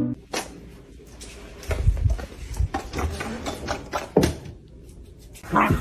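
A run of irregular knocks, clicks and dull thumps, with a sharp knock about four seconds in and a louder thump just before the end.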